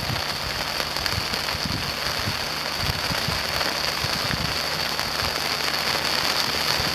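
Heavy rain falling steadily: a dense, even hiss of countless small drop hits.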